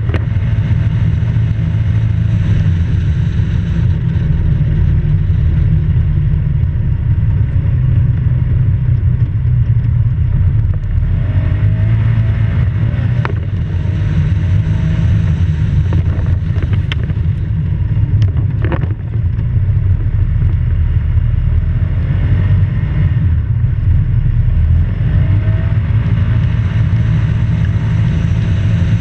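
Polaris off-road vehicle's engine running under way, a heavy low rumble whose pitch rises and falls again and again as the throttle changes. A few sharp ticks sound in the middle.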